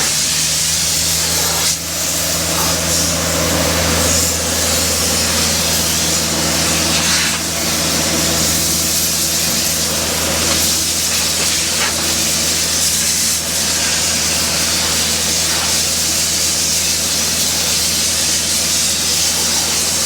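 An engine running steadily with a low, even hum, under a strong continuous hiss.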